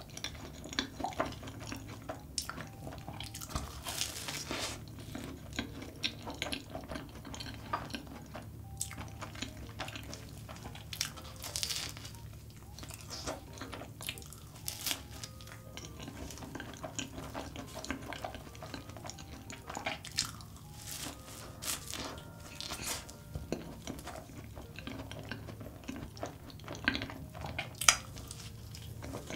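Close-miked chewing of a custard cream puff coated in melted Nutella chocolate: soft, wet, sticky mouth sounds with many small clicks and smacks. One sharp, louder bite comes near the end.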